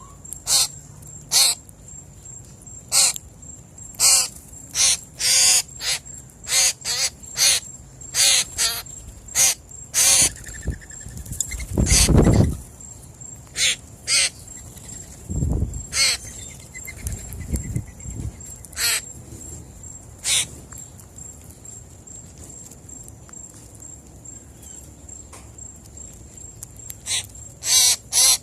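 Harsh, repeated calls of corvids, crows or blue jays at a birdseed feeding spot, coming thick and fast for the first ten seconds, then more sparsely, with a quick cluster near the end. A low rumble rises under the calls about twelve seconds in, and again more faintly a few seconds later.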